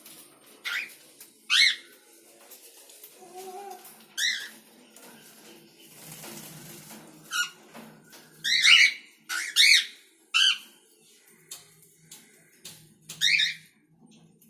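Cockatiel calling: about eight short, harsh chirps at irregular intervals, with the loudest pair a little past the middle.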